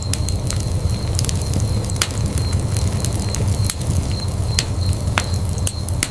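Wood fire burning in a fireplace with a steady low rumble and irregular sharp crackles and pops.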